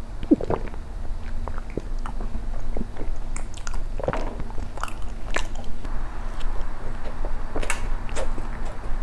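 Close-miked chewing of soft injeolmi bread with soybean cream and red bean paste: irregular wet smacks and clicks of the mouth, with a swallow of milk just after the start.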